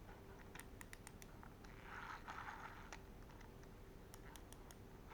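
Faint sharp clicks from a cheap plastic baitcasting reel being handled, in two quick runs of four or five ticks, with a brief scraping rustle between them.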